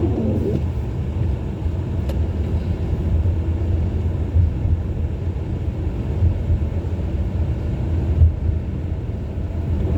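Car driving on a snowy road, heard from inside the cabin: a steady low rumble of engine and tyres, with one brief knock about eight seconds in.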